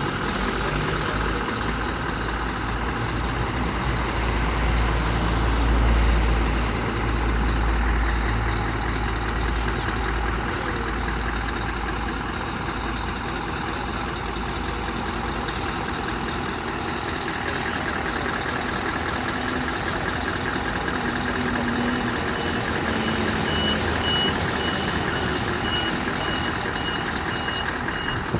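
Scania R620 truck's 16-litre V8 diesel running with a deep rumble, heaviest and loudest around six seconds in. From about 23 seconds in a reversing alarm beeps repeatedly, about two beeps a second.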